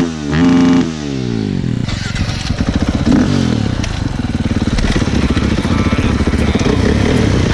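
Dirt bike engine running at idle with a fast, even firing rhythm, picked up by a helmet-mounted camera with some wind noise on the mic. It opens with a short sound that sweeps down in pitch, holds and sweeps back up.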